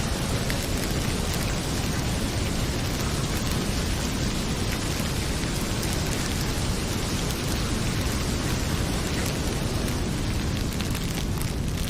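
Heavy rain falling steadily with a deep, even rumble underneath, mixed with the faint crackle of a wood fire in a fireplace.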